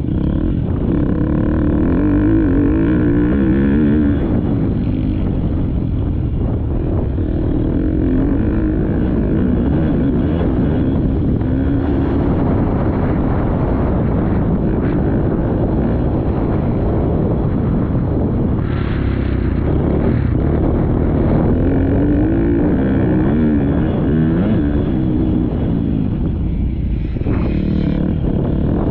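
Motocross dirt bike engine revving hard, its pitch rising and falling again and again as the rider accelerates and shifts around the track, heard close up from a camera mounted on the rider or bike.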